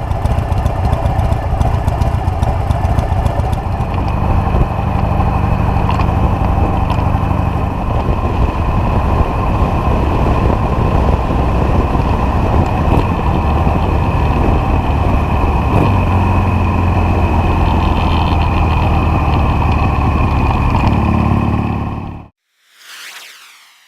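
A motor running steadily and loudly with a low hum, which cuts off abruptly near the end, followed by a brief faint whoosh.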